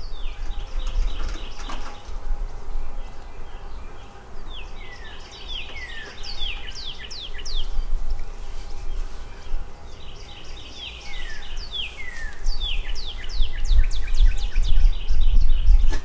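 A songbird singing two phrases of quick, high notes that each sweep downward, over a steady low rumble that grows louder near the end.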